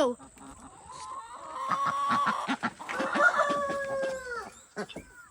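Chicken in the coop clucking rapidly, then breaking into long drawn-out calls that drop in pitch as they end, about four and a half seconds in.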